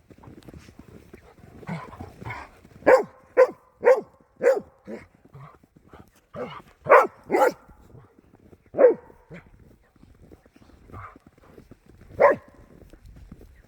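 A dog barking: a quick run of about five barks, then a few more in twos and threes, and a single bark near the end.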